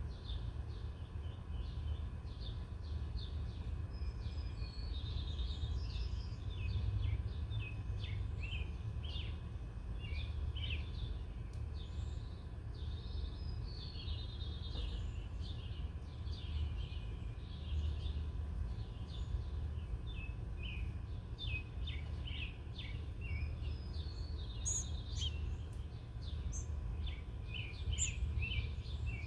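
Small wild birds chirping and twittering in quick, repeated short calls, with a steady low rumble underneath.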